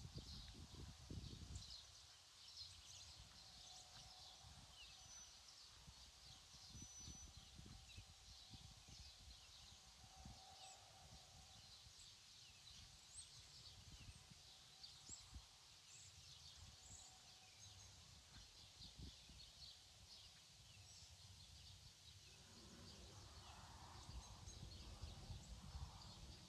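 Faint outdoor ambience: many small bird chirps scattered throughout over a low rumble.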